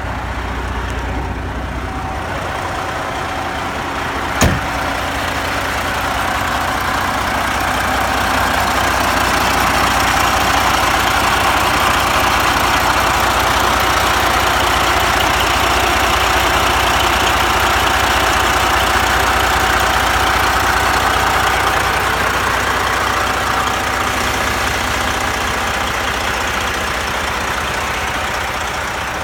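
Detroit Diesel Series 60 inline-six diesel idling steadily just after a clean start, running smoothly. There is one sharp knock about four seconds in, and the engine grows louder through the middle.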